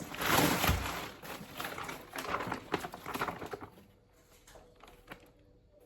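A package being torn open and its wrapping rustled, loudest in the first second, then scattered crinkles that die down after about three and a half seconds into faint ticks.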